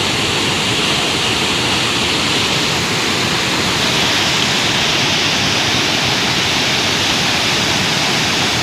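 A mountain river in flood after heavy rain, rushing loudly and steadily.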